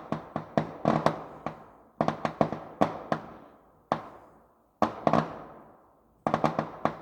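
Fireworks going off: quick clusters of sharp bangs, each group fading out in a trailing echo, about five groups with short pauses between them.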